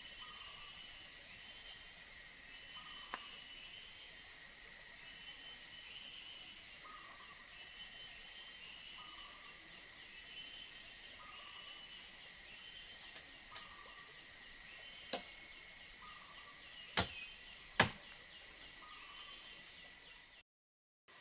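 Jungle insects buzzing steadily at a high pitch, the loudest part fading about six seconds in. A faint call repeats roughly once a second throughout, and a few sharp snaps or clicks come near the end.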